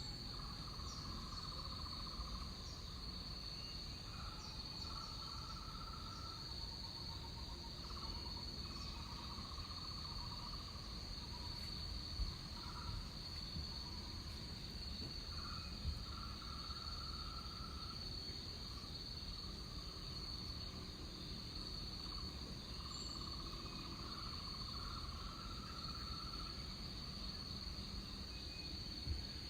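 Tropical rainforest insect chorus: a steady high-pitched buzz that never lets up, with lower, fast-pulsing trills that start and stop every few seconds, over a low steady rumble.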